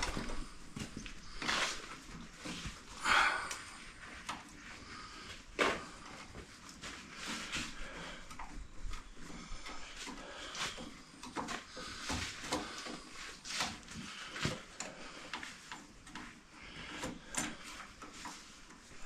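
Irregular light clicks, knocks and scrapes of hands, tools and metal parts being handled, with a few louder knocks in the first six seconds.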